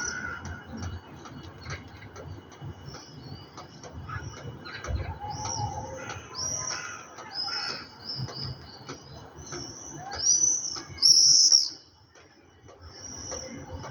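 Many birds chirping in short, high calls one after another, the loudest burst about eleven seconds in, with a faint low rumble underneath.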